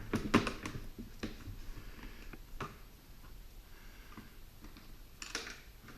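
Scattered sharp clicks and light taps from handling the plastic pet-door frame and its plastic screws and nuts. A few clicks come close together in the first second or so, then single ones about two and a half and five seconds in.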